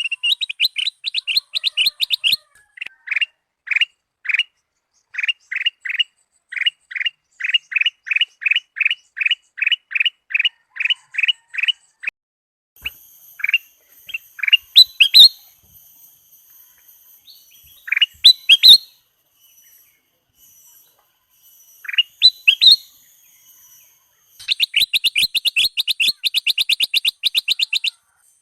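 Ruby-throated bulbul (kutilang emas) singing: runs of quick repeated chirps, then a few loud sweeping phrases over a faint high, steady whine, and a fast chattering trill near the end.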